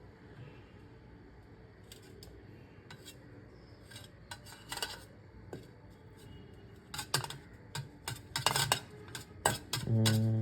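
A metal spoon clinking and scraping in a bowl as a sauce is stirred, in scattered strokes that grow busier after the first few seconds. A short low hum near the end.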